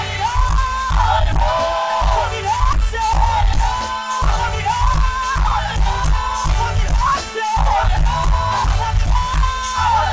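Church choir singing over loud music with a heavy, pulsing bass; the recording's sound quality is poor.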